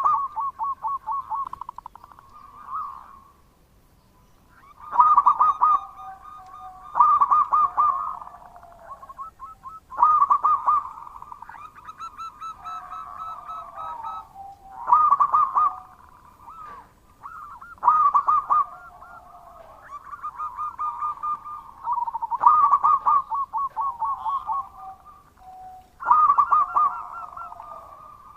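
Zebra dove (perkutut) cooing loudly: repeated phrases of rapid staccato coos every two to three seconds, with short pauses between them and phrases at times overlapping at two pitches.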